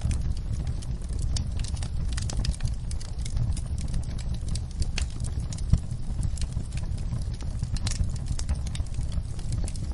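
Campfire burning, with irregular sharp crackles and pops from the wood over a steady low rumble, and one louder pop a little past halfway.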